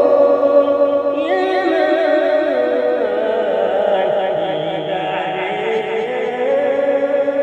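Arabic tawshih, a devotional chant, sung unaccompanied by layered voices. The long melodic lines waver and ornament their pitch, and a higher voice line joins about a second in.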